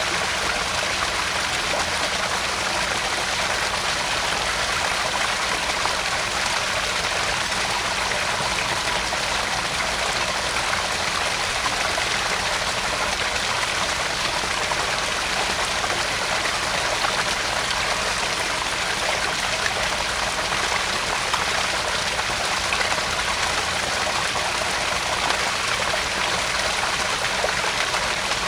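Small garden-pond waterfall splashing and trickling into the pond, a steady, even rush of falling water.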